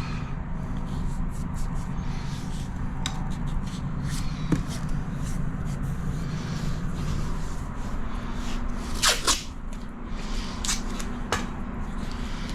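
Adhesive tape pulled off the roll and torn in a few short rasps, the longest and loudest about nine seconds in, over a steady low background hum.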